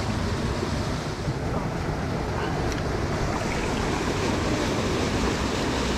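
Steady rushing of a fast mountain stream, loud enough to make it hard to hear.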